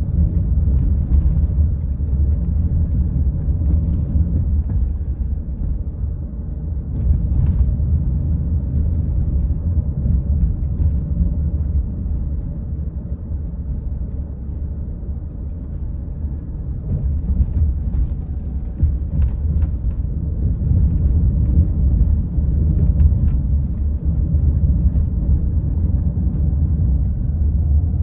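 Steady low rumble of a car driving on city roads, road and engine noise rising and easing gently, with a few faint clicks or knocks scattered through it.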